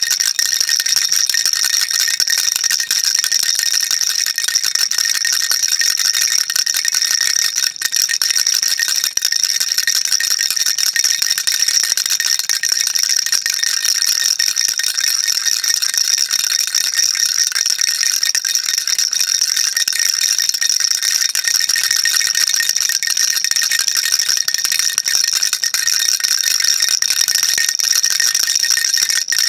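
Baby rattle shaken continuously, its loose beads rattling in a fast, unbroken, high-pitched stream without pauses.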